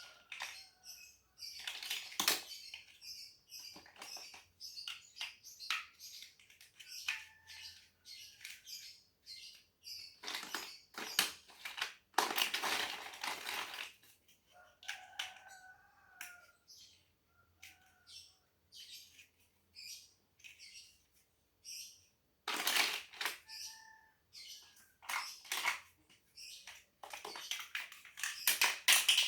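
Lego bricks clattering and clicking in short, irregular bursts as they are rummaged through and pressed together, with louder bouts of rattling now and then.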